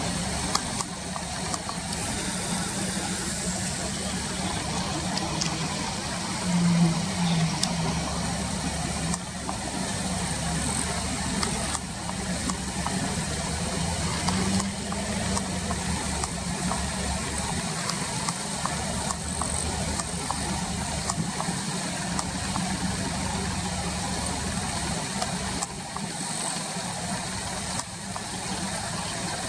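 A steady low engine hum over a noisy background, with no clear changes in pace or pitch.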